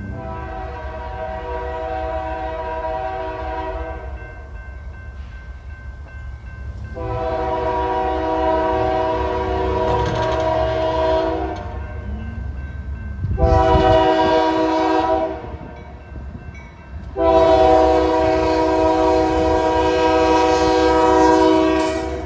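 Union Pacific locomotive 6312 sounding its multi-chime air horn in the grade-crossing pattern: two long blasts, a short one, then a final long blast held as it nears the crossing, over the low rumble of the train.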